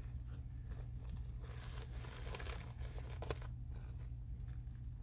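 Crinkling and rustling of flexible HVAC duct's outer plastic jacket as it is handled and pushed onto a fitting, with a sharp click about two-thirds of the way in, over a steady low hum.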